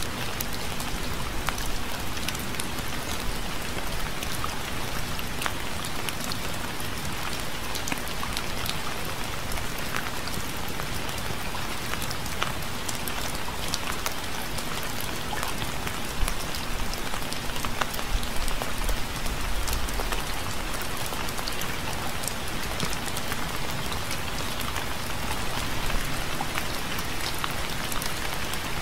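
Steady rain falling on a surface, an even hiss scattered with the ticks of individual drops.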